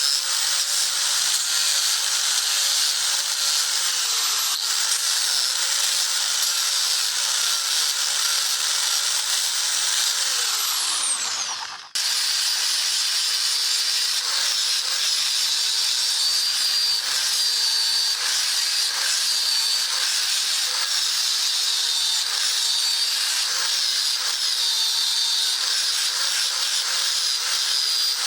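Electric power tool running under load with a steady abrasive hiss. About eleven seconds in its motor tone falls as it winds down, then a similar abrasive running starts again abruptly and continues.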